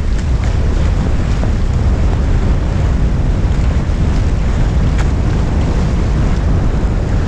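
Wind buffeting the boat-mounted action camera's microphone with a steady low rumble, over the rush of water along a Hobie 16 catamaran's hulls under sail.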